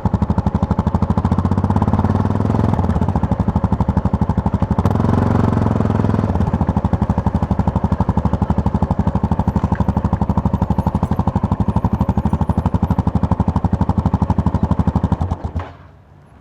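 Yamaha MT-03 parallel-twin engine running under way, a loud, steady pulsing note with small shifts in revs about two and five seconds in. It cuts off abruptly near the end, leaving a much quieter background.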